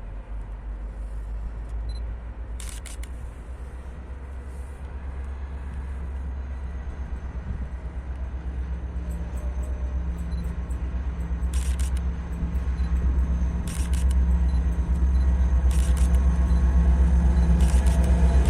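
A train approaching, its low drone growing steadily louder, with a steady low hum joining about eight seconds in and a faint high whine above it; a few short clicks sound through it.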